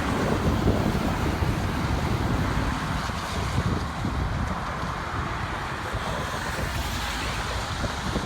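Wind buffeting the microphone over a steady rushing noise, a little heavier in the first three seconds.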